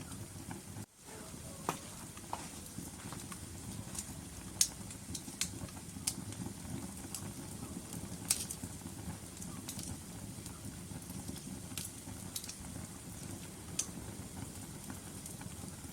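Burning logs in a fireplace: a steady low rumble of the fire with scattered sharp crackles and pops every second or two. The sound drops out briefly about a second in.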